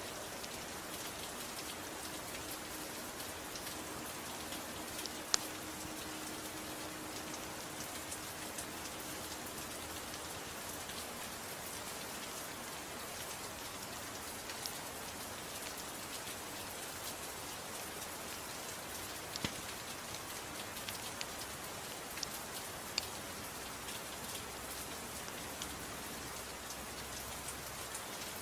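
Steady gentle rainfall, an even hiss, with a few isolated sharp crackles from a wood fire.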